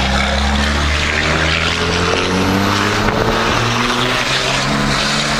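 2004.5 Dodge Ram's 5.9-litre Cummins inline-six turbodiesel pulling under acceleration. Its pitch climbs, drops about three seconds in at a gear change, then climbs again, with a faint high whistle rising over it.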